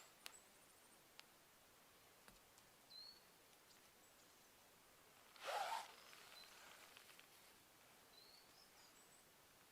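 Quiet outdoor ambience with a few faint, short, high chirps scattered through it and one brief louder rustle or crunch about halfway.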